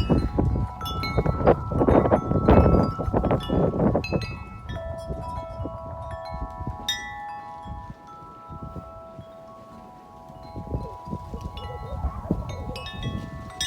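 Corinthian Bells 36-inch wind chime ringing in gusty wind. Heavy wind rumble on the microphone covers the first four seconds, then several deep tubes ring on together as the gust eases, and the wind picks up again near the end.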